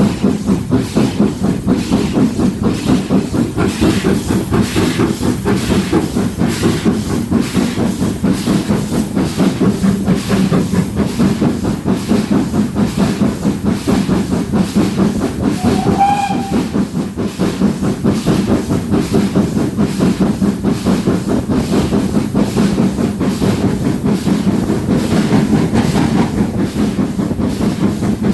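GWR Castle-class 4-6-0 steam locomotive 4079 Pendennis Castle working hard up the Alton bank gradient, its exhaust beating in a fast, even rhythm with a steady hiss of steam. About halfway through comes a short, high whistle-like note.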